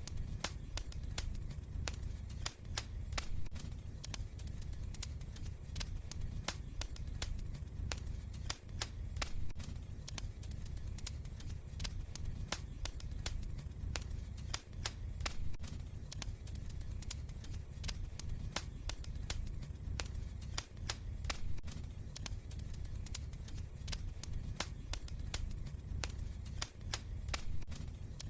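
Wood fire crackling: frequent, irregular sharp pops and snaps over a steady low rumble of burning.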